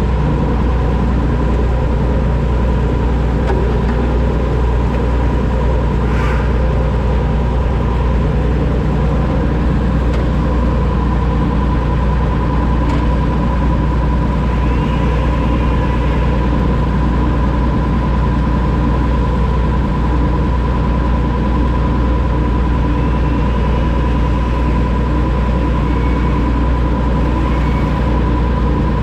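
Oliver 7300 combine running steadily while cutting wheat: a constant low engine drone with a thin steady whine on top.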